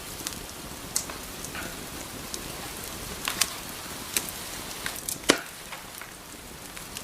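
Wood fire crackling in a fireplace: irregular sharp pops and snaps over a steady hiss, with the loudest pop about five seconds in.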